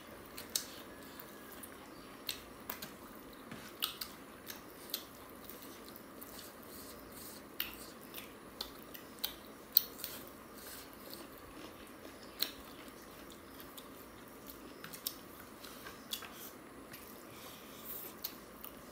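Close-up eating sounds: two people chewing mouthfuls of chicken curry and rice, with irregular sharp mouth clicks and smacks. The loudest comes about halfway through.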